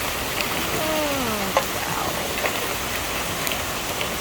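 Hail coming down steadily: a dense hiss of the shower with scattered sharp clicks of hailstones striking hard surfaces.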